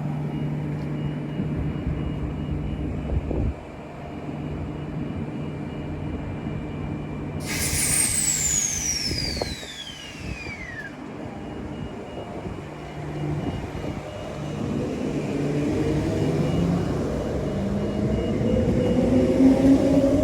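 Transperth electric train at the platform with a steady low hum, then a high tone sliding steeply down over about three seconds. From about two-thirds of the way in, the traction motors' whine rises in pitch and grows louder as the train pulls away.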